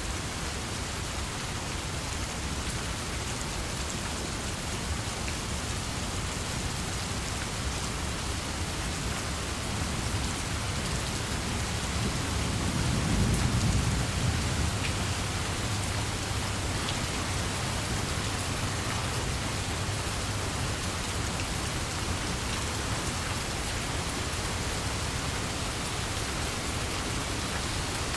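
Steady heavy rain falling, with a low rumble of thunder swelling up about halfway through.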